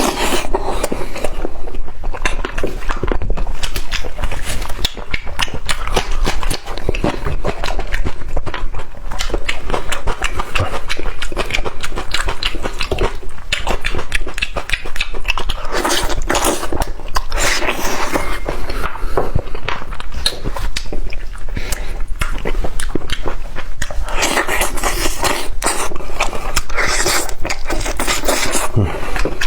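Close-miked eating of lamb trotters: continuous wet chewing, mouth smacks and crackly gnawing, with louder stretches about halfway through and again near the end.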